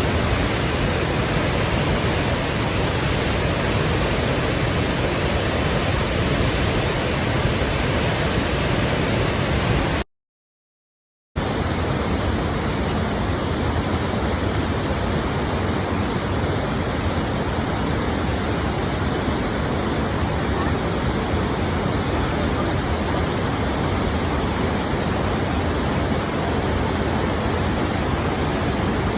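Flowing water rushing steadily, a dense even hiss. About ten seconds in it cuts out completely for a little over a second, then resumes with a slightly different tone.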